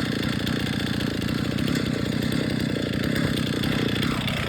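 A large chainsaw running steadily in an Alaska chainsaw mill, ripping a log lengthwise. Near the end its pitch drops.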